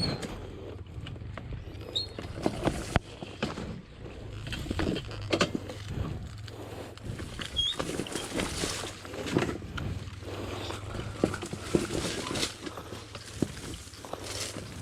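Trail motorcycle riding down a rough downhill track, its engine running low and steady, with frequent knocks and rattles from the bike over the uneven ground.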